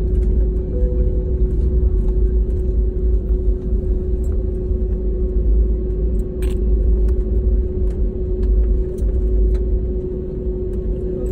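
Airliner cabin noise on the ground after landing: a steady deep rumble of engines and rolling wheels with a constant hum over it.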